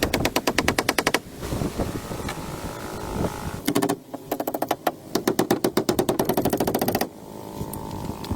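Small motorbike engine running with a rapid, even popping of about a dozen beats a second. It comes in two spells that break off abruptly about a second in and again near the end, with a steadier, smoother running sound between them.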